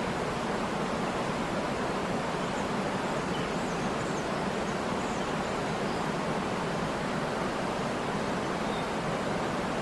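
Waterfall, water plunging forcefully from a height of over 50 feet: a steady, even rush of falling water.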